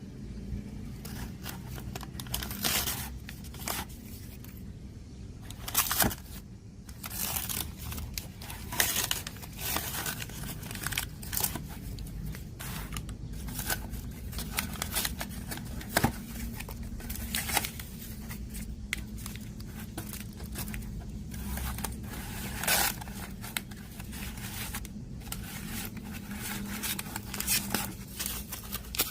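Irregular scraping, rustling and clicking of hands working on the parts of a Sony CFS-1065S radio-cassette player, over a steady low hum.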